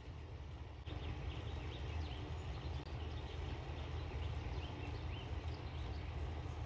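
Small birds chirping in many quick, short, high calls over a steady low rumble; both get louder about a second in.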